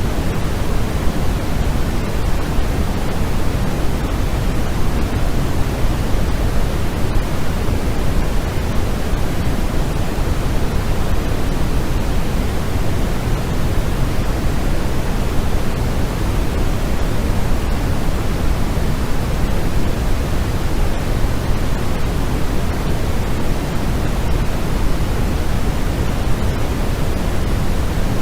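Continuous synthetic white noise for sleep, steady and unchanging, with more weight in the low end than in the highs, closer to pink noise.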